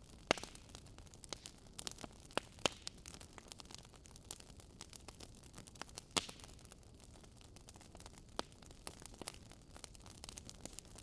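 Campfire burning: a soft steady hiss with irregular sharp crackles and pops from the burning wood, a few louder pops standing out.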